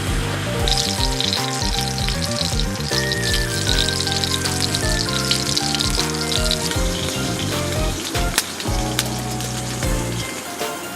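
Food sizzling in a hot pan, starting just under a second in and dying away about seven seconds in, over background music.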